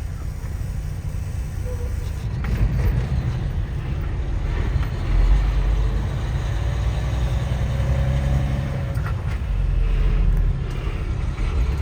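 Heavy low rumble of a semi truck's diesel engine and road noise heard from inside the cab while driving in traffic, swelling louder about five seconds in and again near the end.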